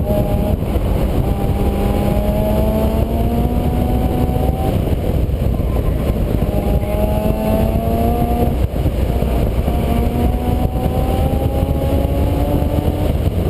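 Vehicle engine pulling up through the gears. Its pitch climbs slowly for a few seconds, then drops and starts climbing again at each of two gear changes, about halfway and about two-thirds through. A heavy low rumble lies under it.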